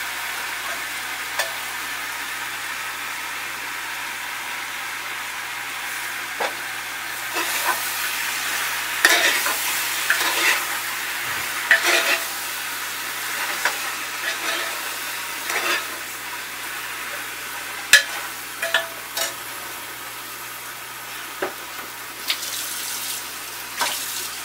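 Taro leaves and potatoes sizzling in an aluminium pressure cooker as they fry, stirred with a spatula. From about six seconds in, the spatula scrapes and knocks against the pot, with the sharpest knock about three-quarters of the way through.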